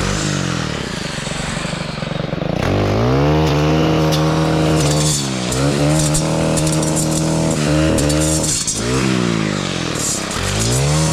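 Stihl Kombi powerhead with a 9-inch saw blade attachment revving up hard about two and a half seconds in and running at high revs while cutting a tree. The revs drop briefly twice and climb again.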